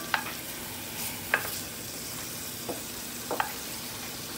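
Chopped celery and onion frying in butter in an enamelled cast-iron Dutch oven, sizzling steadily while a wooden spoon stirs them. The spoon knocks and scrapes against the pot several times.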